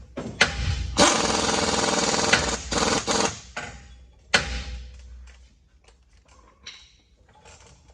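Pneumatic shop tool running in bursts: one steady run of nearly two seconds, a couple of short bursts, then a sharp metallic hit about four seconds in, followed by faint clicks and rattles.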